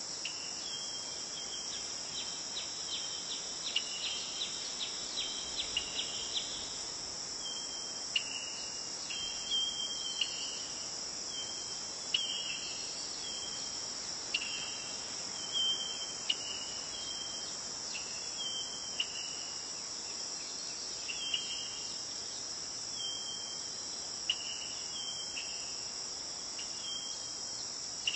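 Crickets trilling in a steady high-pitched chorus, with shorter chirping notes breaking in every one to two seconds.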